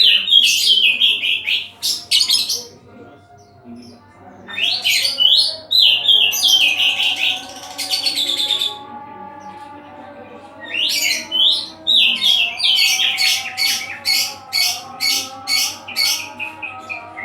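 Oriental magpie-robin (kacer) singing loud, varied whistled phrases in three bursts separated by short pauses, the last burst ending in a quick run of sharp repeated notes, about three a second.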